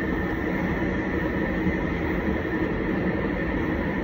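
A train running steadily: a continuous rumble of running and rail noise with a faint steady hum, unchanging throughout.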